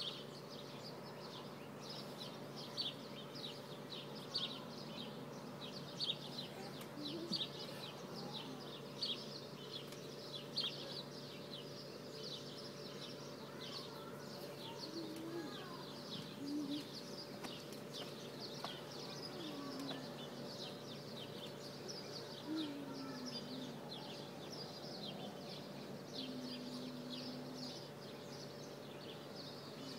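Small birds chirping over and over in quick high notes, with a steady low hum underneath and a few short, low calls in the second half.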